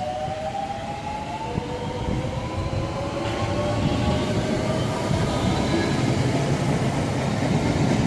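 Class 465 Networker electric multiple unit accelerating away, its traction motors whining in several tones that climb steadily in pitch. Underneath, the rumble of wheels on rail grows gradually louder.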